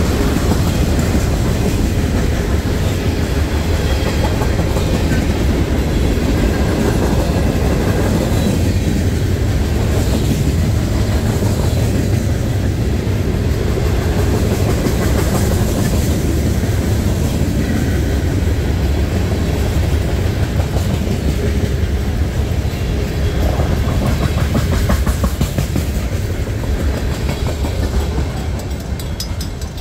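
Freight train rolling past close by: a steady heavy rumble of cars with wheels clacking on the rails, easing off near the end.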